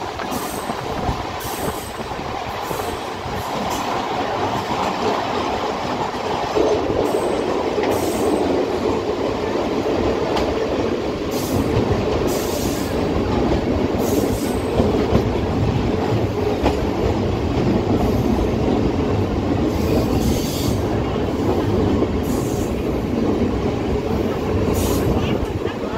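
Mumbai suburban local electric train running, heard from its open doorway: the steady noise of wheels on the rails, with short high-pitched sounds now and then.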